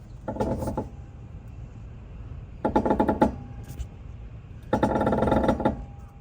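Creaking squeal from the suspension of a slightly lifted Nissan Clipper kei van, coming three times over a steady low rumble. It is an abnormal noise whose cause is unknown; the owner wonders whether the small lift and larger-diameter tyres have strained the suspension.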